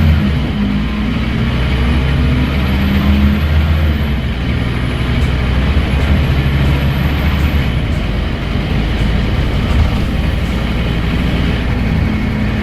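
Scania N230UD double-decker bus running under way: the engine and ZF Ecomat automatic gearbox give a steady, loud, low engine note that shifts about eight seconds in.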